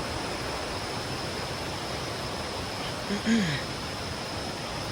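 Steady rush of a stream or waterfall, with a steady high-pitched whine over it. About three seconds in comes a short vocal grunt that falls in pitch.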